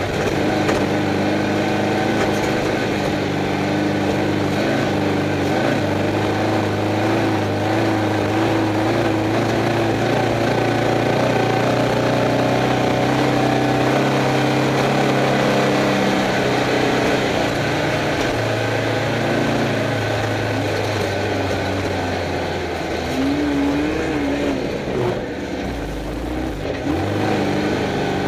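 Air-cooled Volkswagen Beetle flat-four engine of a Class 11 stock Bug running hard in an off-road race, heard from inside the cabin along with the rattle and rumble of the car over rough ground. The engine eases off briefly near the end, then picks up again.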